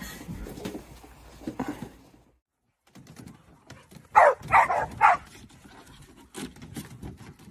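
A dog barking three times in quick succession, about half a second apart.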